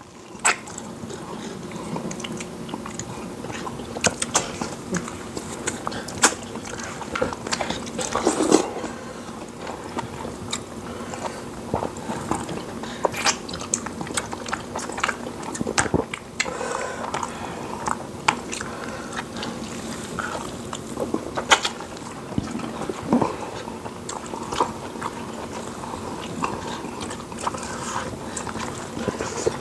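Mouth sounds of people eating fufu and meat in soup by hand: chewing with frequent wet smacks and sharp clicks.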